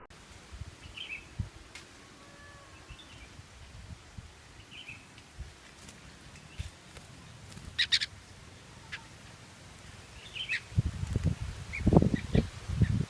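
Sooty-headed bulbul giving short, sparse chirps a few seconds apart. A quick cluster of sharp clicks comes about eight seconds in, and low rumbling noise starts near the end and grows louder.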